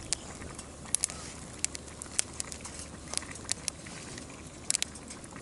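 Wood fire crackling in a fire stand: irregular sharp pops, a couple a second, over a steady hiss.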